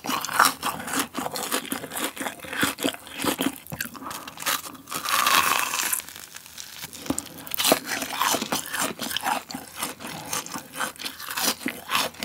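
Close-miked chewing of a fried cheese ball: a dense run of short crunching clicks and wet mouth sounds, with a longer hissy stretch about five seconds in.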